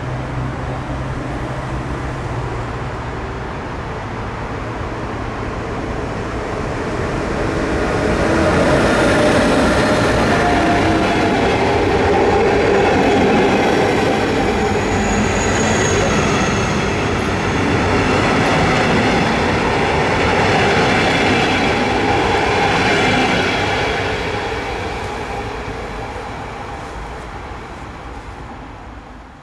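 A train running through the station. The rail noise builds over the first several seconds and stays loud for a long stretch, with high squealing tones from the wheels, then dies away near the end.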